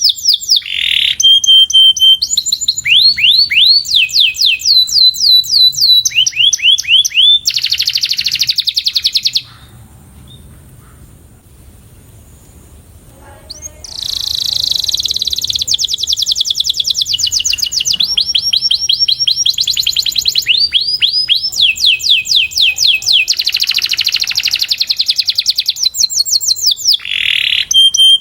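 Canary singing a fast song of rolling trills, runs of quickly repeated sweeping notes, with a pause of about four seconds near the middle.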